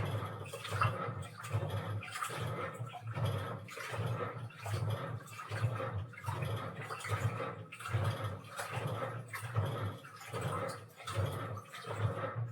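Washing machine running a wash cycle, water and laundry sloshing in the drum in uneven surges about once or twice a second.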